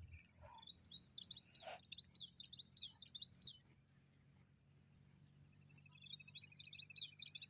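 A small bird singing outdoors in bursts of rapid, high, repeated chirping notes: one bout from about half a second in lasting about three seconds, and another starting near the end over a fainter, steady trill. There is one sharp click about two seconds in.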